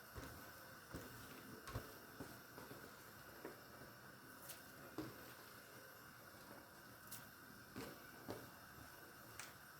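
Near silence: faint room hiss with a few scattered soft clicks and knocks.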